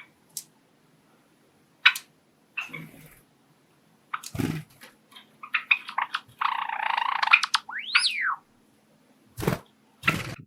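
A Java sparrow singing: scattered clicks and chips build into a harsh rasping stretch, then a whistled note that rises and falls about eight seconds in. A few short soft thumps come before and after.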